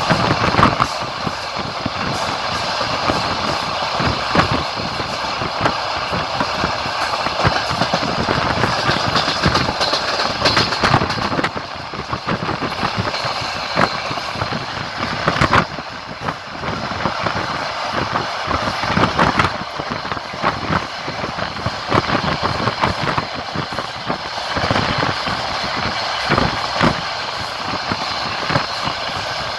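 Passenger train rolling along, heard from aboard: a steady rumble of wheels on rail broken by a stream of clicks and knocks as the wheels pass over rail joints.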